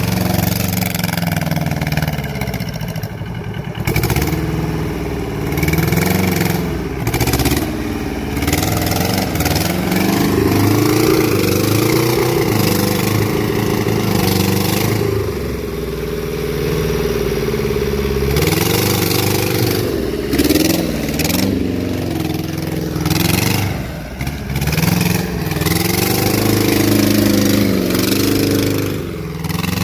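Homemade small tractor's Tata Ace engine running without a break, its speed rising and falling again and again as it is driven and worked.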